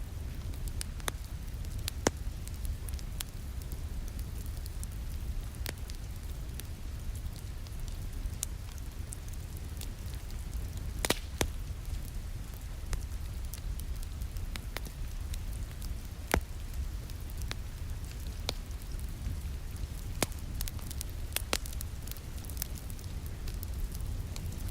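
Wood fire in a fireplace crackling, with irregular sharp pops and a cluster of louder pops about eleven seconds in, over a steady low rumble and a soft hiss of rain against a window.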